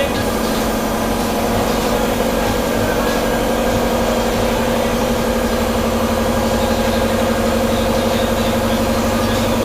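Air compressor running steadily with an even, fast pulsing hum.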